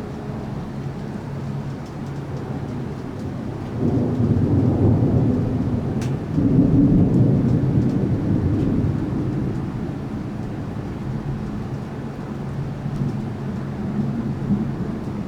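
Thunder rumbling in two swells, the second stronger, fading out over several seconds, over steady rain and a low hum.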